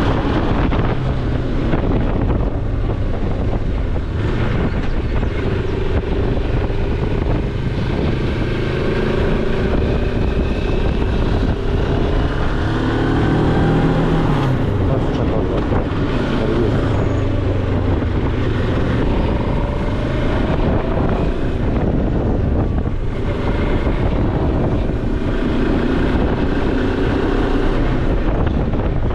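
Moto Morini X-Cape's parallel-twin engine under way, its pitch climbing through the revs several times and dropping back between them as it pulls through the gears, with heavy wind noise on the microphone.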